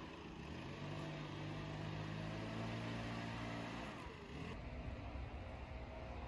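Low, steady hum of a motor vehicle's engine running. The hum's pitch lines break off with a brief downward glide about four seconds in, and a steady rumble continues.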